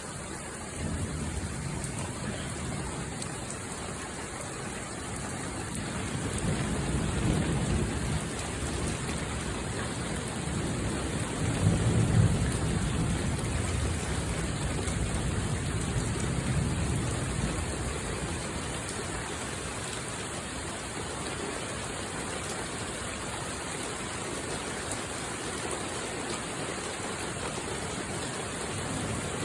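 Steady rain with low thunder rumbles swelling and fading several times, the loudest about twelve seconds in.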